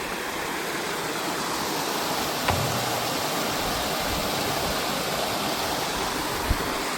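Water rushing steadily at a canal lock, an even unbroken wash of sound, with a faint tick a few seconds in and a short low thump near the end.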